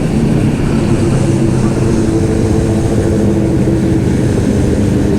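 Honda CBR500R's parallel-twin engine running at steady cruising revs, with wind rushing over the helmet microphone.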